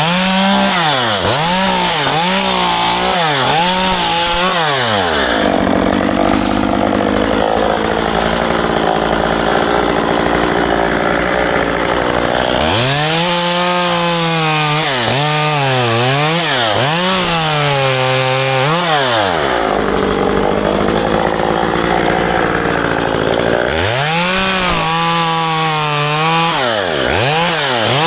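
Gas chainsaw cutting ficus branches: the engine revs up and down again and again between cuts, settling into a steady cutting run about a fifth of the way in and again, shorter, about three-quarters through.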